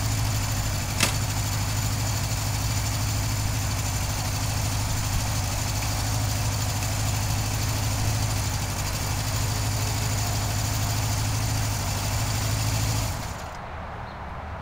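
Honda CB750 inline-four engine running steadily at an even speed, with one sharp click about a second in. The engine cuts off shortly before the end.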